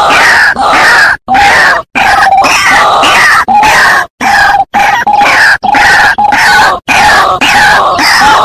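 White-breasted waterhen (dahuk) calling loudly: fast, harsh croaking calls repeated over and over, broken by several sudden short silences.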